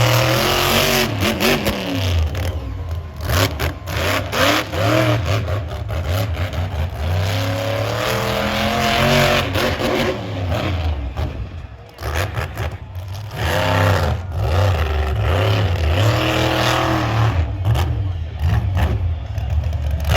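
Monster truck engine revving hard and repeatedly, the pitch climbing and falling with the throttle. There are brief sharp dips where the throttle is chopped, including a deep one about twelve seconds in.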